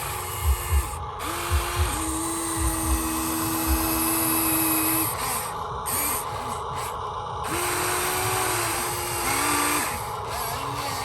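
Small electric motors of radio-controlled construction models whining, the pitch holding then stepping up and down and breaking off several times as the controls are worked, with scattered low knocks.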